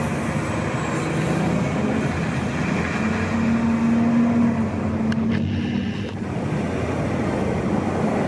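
Diesel engine of a 2004 Spartan Gladiator / Superior fire pumper driving off, its engine note rising in pitch about three seconds in and easing off again, with a few short clicks partway through.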